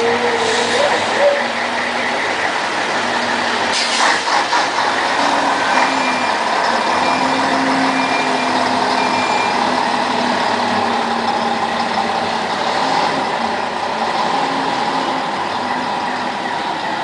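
Scania 112H truck's six-cylinder diesel engine running steadily while the tractor-trailer is maneuvered. There is a short hiss of released air about four seconds in, and a few faint high beeps follow.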